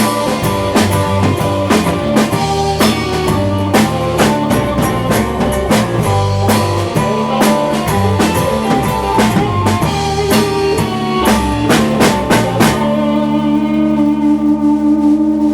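Rock band playing with drum kit, bass and guitar. A little under 13 seconds in the drums stop and a held chord rings on, the song ending.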